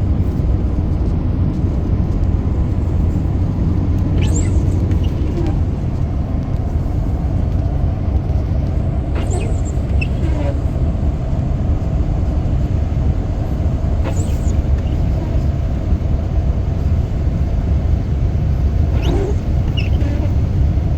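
Steady low rumble of a car driving along a road, with a faint short swish about every five seconds.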